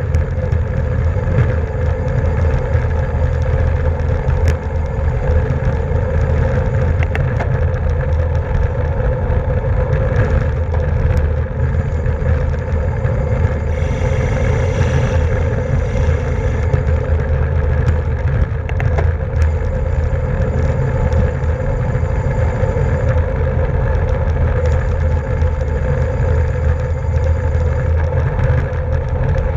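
Steady wind rush and rolling hum of a road bicycle at racing speed, with a brief hiss about halfway through.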